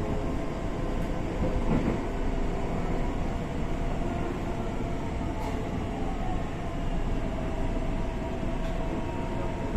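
Interior running noise of a Tokyo Metro 6000 series electric train car: a steady rumble of wheels on rail, with faint steady tones from the Hitachi two-level VVVF inverter and traction motors.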